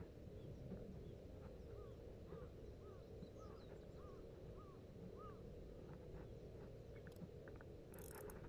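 Quiet lakeside ambience with a faint steady hum, over which a distant bird gives a run of about seven short, arched call notes, roughly two a second, in the middle. A brief rustle near the end.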